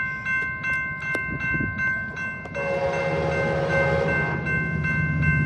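Level crossing warning bells ringing steadily as a train approaches. About two and a half seconds in, a locomotive horn sounds for about a second and a half, and the low rumble of the approaching diesel locomotive builds and grows louder.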